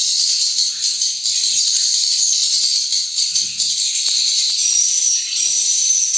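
Swiftlets twittering: a dense, continuous high-pitched chirping chorus, with a thin steady high tone joining in about two-thirds of the way through. Faint soft knocks and scrapes sit underneath.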